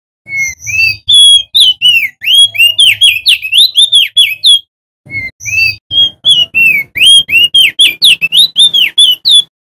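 Male opior jambul (crested white-eye) singing loudly: two fast phrases of clear whistled notes that swoop up and down, separated by a short pause about halfway through.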